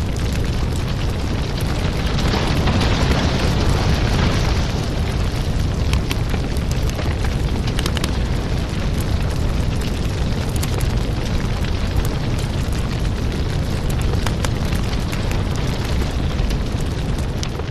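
Firewood burning: a steady low rumble of flames with scattered crackles and pops, and a stretch of denser hiss about two to four seconds in.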